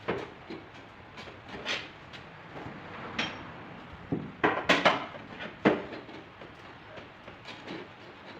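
Paintless dent repair tools knocking and clicking at irregular intervals, with a cluster of sharper knocks about four and a half to five seconds in.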